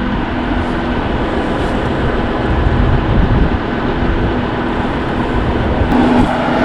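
Large diesel tractor engine running steadily, with a constant hum over the engine noise.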